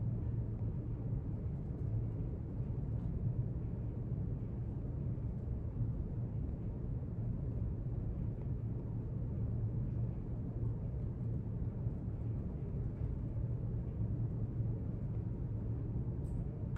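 Steady low rumble of library room ambience, even throughout, with one brief faint click near the end.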